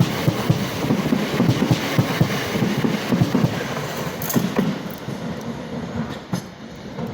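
A train running through the station, its wheels clicking quickly and steadily over the rail joints, with the noise dying away over the last couple of seconds.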